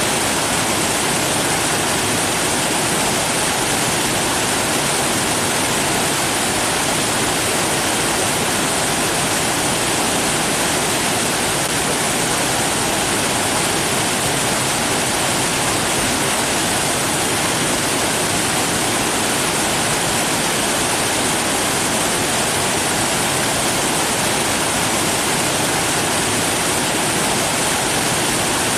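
Steady rush of falling water, like a waterfall: an even, unbroken hiss with no change in level.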